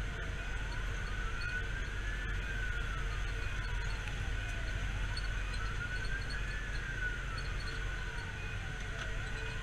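Fire engine siren on a slow wail, rising and falling about once every four to five seconds, over a steady low engine and road rumble heard from inside the rig.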